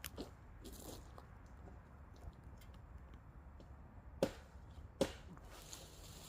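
Two sharp knocks about a second apart, over faint scattered ticks and a low steady hum.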